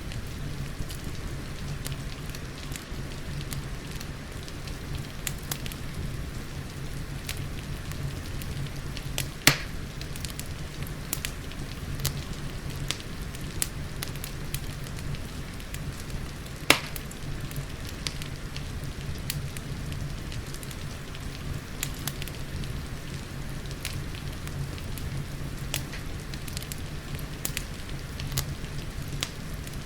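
Wood fire crackling with frequent small clicks and two sharp, louder pops about a third and halfway through, over a steady low rumble and the hiss of gentle rain.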